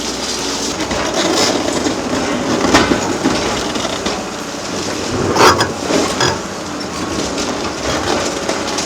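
Excavator demolishing a concrete bridge: continuous crunching and grinding of concrete and steel, with irregular sharp knocks about a third of the way in and a louder bang just past the middle.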